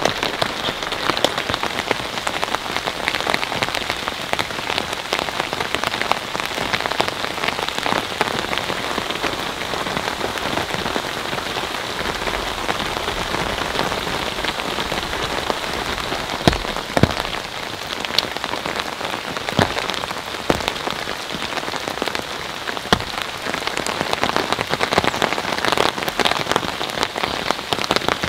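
Steady heavy rain falling without a break, with many individual drops ticking on a surface close by and a few louder drop hits in the second half.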